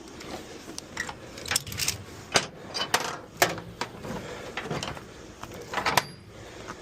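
Irregular metallic clicks and knocks, with a few sharp louder ones standing out, as of metal tie-down or recovery gear being handled.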